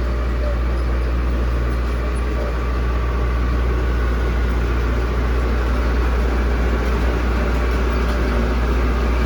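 Heavy diesel engine of earthmoving machinery running steadily, with a deep, even rumble.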